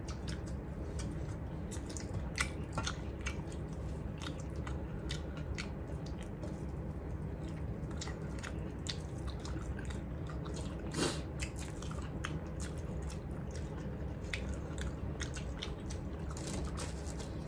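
Close chewing and biting of people eating rice and pumpkin by hand: many short wet clicks and smacks at irregular moments, one a little stronger about two thirds of the way in, over a steady low hum.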